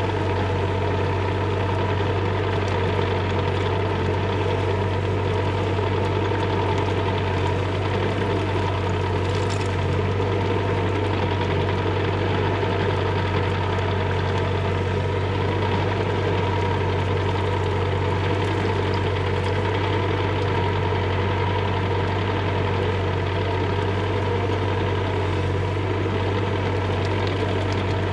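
Bobcat E35 mini excavator's diesel engine running steadily at an even speed.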